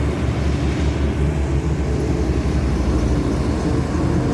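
Caterpillar 320D2 excavator's diesel engine running steadily under load while digging, a low continuous sound with a fast even pulse.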